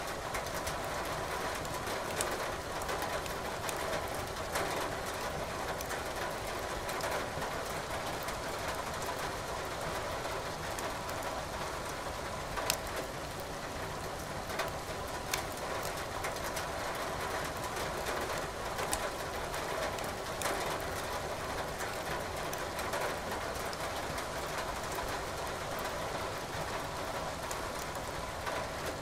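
Firewood crackling in a fireplace, with sharp pops every few seconds, over the steady hiss of rain.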